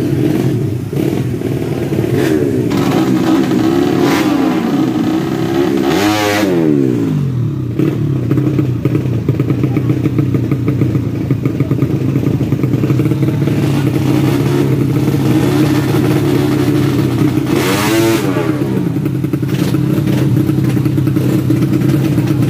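Tuned 130cc four-stroke underbone drag-bike engines running steadily. About six seconds in, and again near eighteen seconds, a louder engine rises and then drops quickly in pitch.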